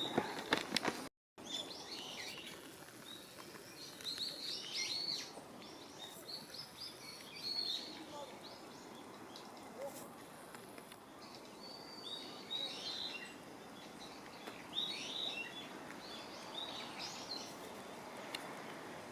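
Small birds chirping in short, scattered bursts every few seconds over a steady background hiss. In the first second there are footsteps or rustling, cut off by a brief dropout to silence.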